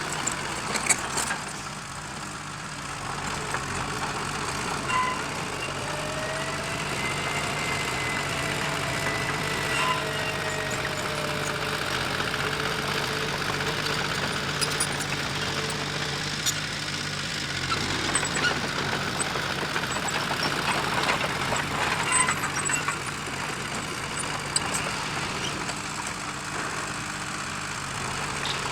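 Diesel engine of heavy earth-moving machinery running steadily, with a whine that rises and falls for several seconds and scattered metallic clanks.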